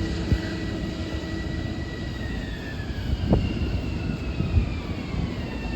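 Long Island Rail Road electric train rumbling along the track, its motor whine holding steady and then sliding slowly down in pitch from about two seconds in.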